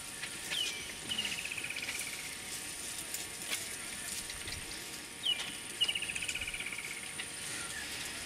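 A bird calling twice: each call is a short sharp note followed by a quick run of repeated notes that falls slightly in pitch, over a steady thin high whine.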